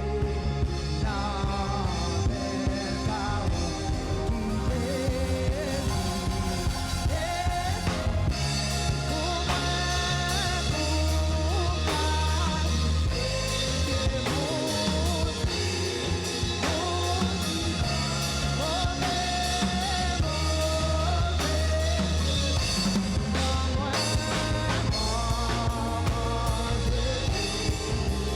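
Gospel worship song: a voice singing a melody over a band with drum kit, bass and keys, keeping a steady beat.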